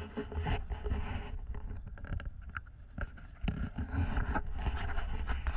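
Water splashing and sloshing in irregular bursts as someone wades into a river in water shoes, over a steady low wind rumble on the microphone.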